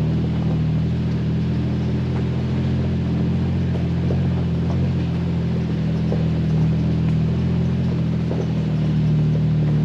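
Jeep Wrangler engine running at a steady, even pitch while the Jeep drives a dirt mountain road, with faint scattered ticks and rattles over the drone.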